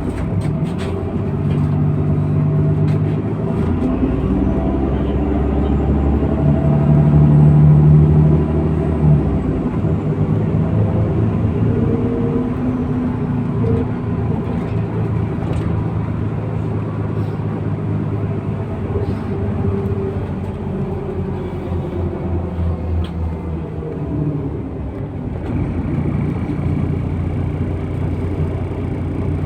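MAZ-103 city bus's diesel engine and drivetrain heard from inside the passenger cabin while the bus drives. The engine pitch rises and falls as the bus speeds up and slows, and it is loudest about seven to nine seconds in.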